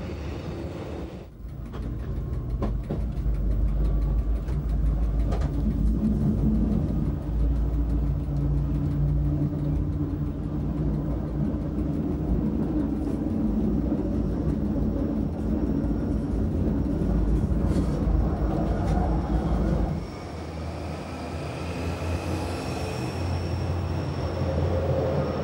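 Metre-gauge electric train of the Montreux–Oberland Bernois railway running along the track: a steady heavy rumble of wheels on rails with a few sharp clicks. About twenty seconds in it changes to a lighter, thinner running sound with a faint high whine.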